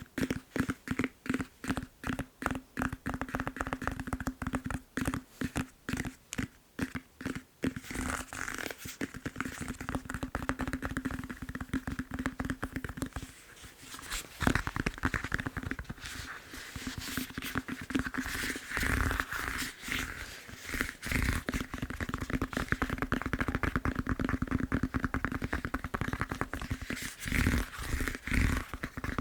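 Fast tapping on a foam massage roller. It starts as separate taps a few per second, then turns into a quicker, denser flurry with a short break about halfway through.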